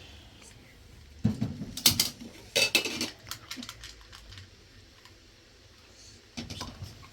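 Hard objects clattering and knocking together in short clusters: about a second in, again around two to three seconds in, and once more near the end.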